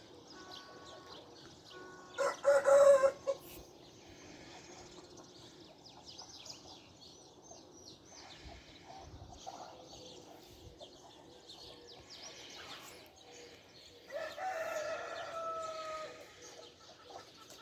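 A rooster crowing twice: a short loud call about two seconds in, then a longer crow near the end that dips in pitch at its close, with small birds chirping faintly underneath.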